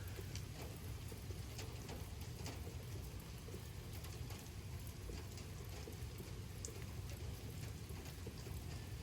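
Steady light rain falling, with scattered individual drops tapping close by.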